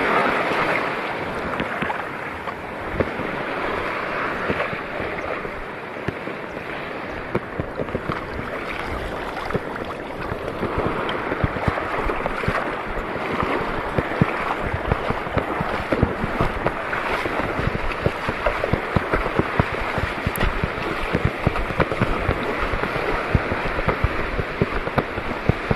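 Wind buffeting the microphone over the wash of seawater, with frequent short knocks and crackles that grow denser in the second half.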